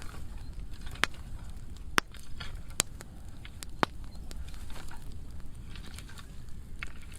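Burn pile of dry pruning wood burning, crackling, with four loud sharp pops in the first four seconds.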